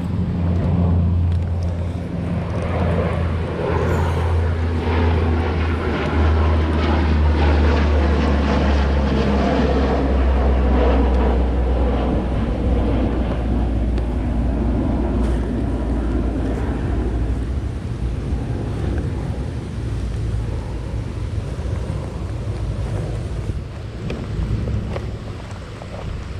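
A steady engine drone that swells to its loudest about halfway through and eases off near the end.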